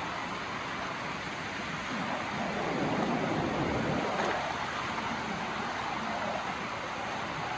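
Steady rush of a swollen river running high and fast, water pouring over a wall's edge.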